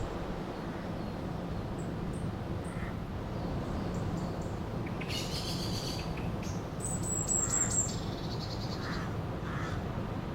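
River water flowing steadily, with birds calling over it: a harsh, rasping call about five seconds in, then a high, thin trill about seven seconds in, and a few softer calls near the end.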